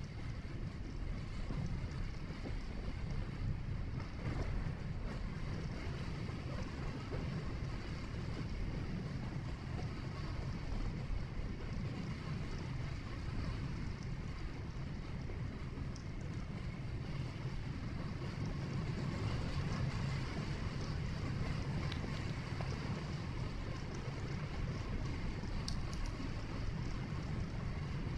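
Steady low rumble of a vehicle driving: tyre and engine noise, with a few faint ticks.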